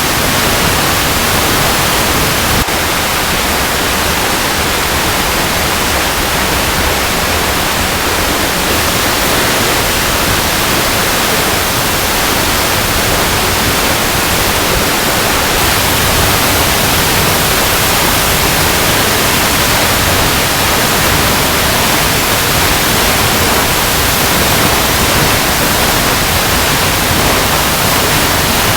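Waterfall cascading over rocks: a steady, dense rush of falling water with no let-up.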